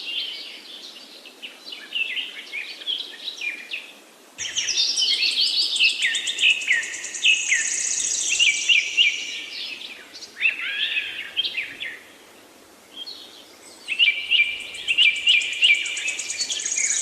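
Several songbirds chirping and singing in quick, high-pitched whistles and trills, with short lulls about four and twelve seconds in.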